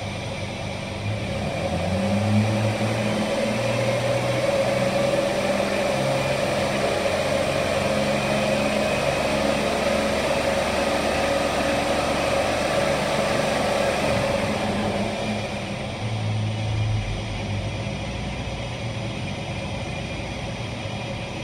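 Jeep Liberty 3.7-litre V6 engine brought up from idle to a steady raised speed of around 2,700 rpm, held there for about fourteen seconds, then let back down toward idle.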